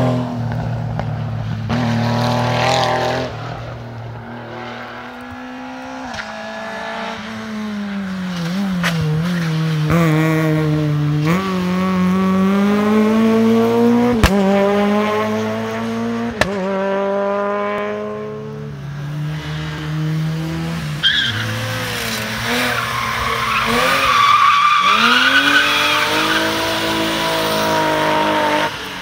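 Rally car engine pulling hard up through the gears, its pitch climbing and then dropping back at each shift, several times over. In the second half a rough, wavering high sound rides over the engine, fitting tyres squealing through a corner.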